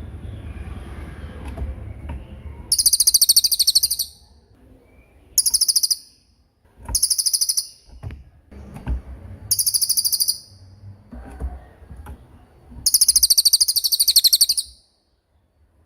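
Songbird singing in five loud bursts of very high, rapid trilled notes, each lasting about one to one and a half seconds, with softer chirps between them.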